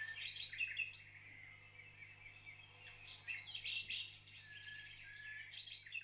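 Faint birdsong: several small birds chirping and trilling in quick high notes, in bursts at the start, about three seconds in and near the end.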